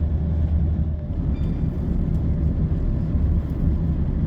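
Class 170 Turbostar diesel multiple unit running along the line, heard from aboard the train: a steady low drone from its underfloor diesel engines over wheel-and-rail rumble. The low engine note eases slightly about a second in.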